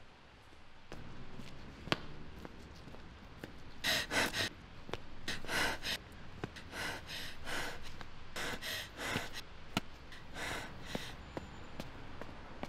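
A person breathing hard in a run of short, gasping breaths, starting a few seconds in and stopping near the end.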